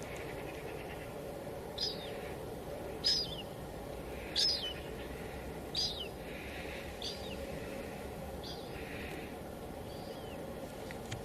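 Steady hiss of light drizzle falling, with a bird repeating a short, high call about every second and a half.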